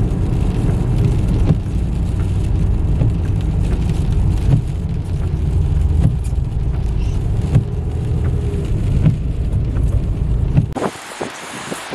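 Steady low rumble of a car driving, with faint scattered ticks. Near the end it cuts off suddenly into a quieter hiss with clicks.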